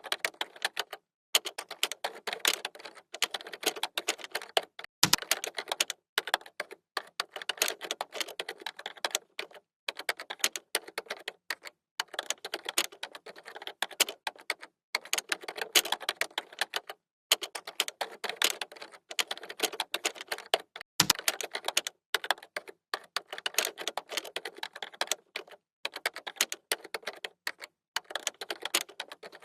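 Typing on a keyboard: fast runs of crisp key clicks broken by brief pauses, with a deeper thump twice.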